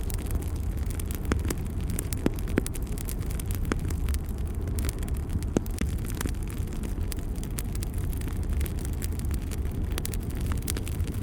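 Wood fire burning in a fireplace: a steady low rumble of flames with irregular sharp crackles and pops, a few louder pops in the first half.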